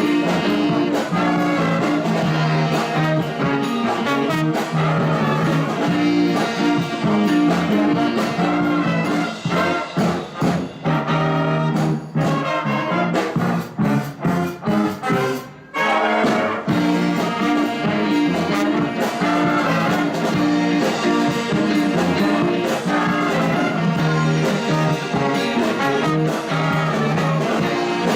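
Live jazz band with a brass horn section playing an upbeat number. Partway through the band drops into short, clipped stop-time hits with gaps between them, then comes back in full about 16 seconds in.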